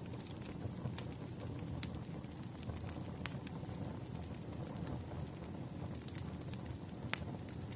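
Wood fire burning: a steady low rumble of flames with scattered sharp crackles and pops from the burning logs, about five in these few seconds.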